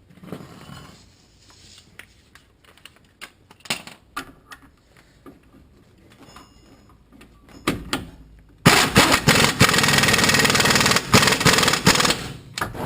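Light clicks and knocks of tools being handled, then about nine seconds in an impact wrench hammers loudly for about four seconds, tightening a bolt on a freshly fitted control arm.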